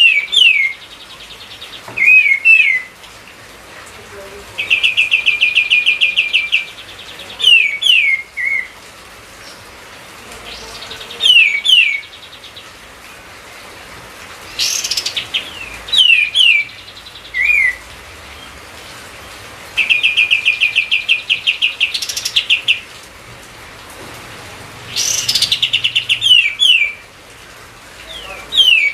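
Kapas tembak (triller) singing hard, over and over: sharp falling whistled notes, often in pairs, and twice a rapid trill of about ten notes a second lasting about two seconds.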